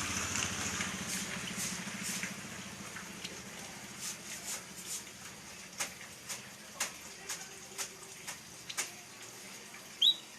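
Caged white-headed munia (prit kaji) giving short, sharp chirps about two a second, with one louder rising chirp near the end.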